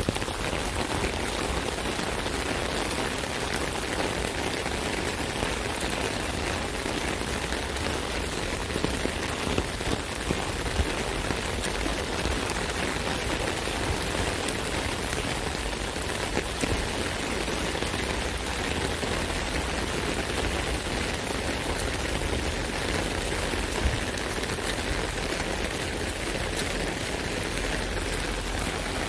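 Steady rain pattering on an umbrella canopy, a dense even patter of many small drop impacts with no letup.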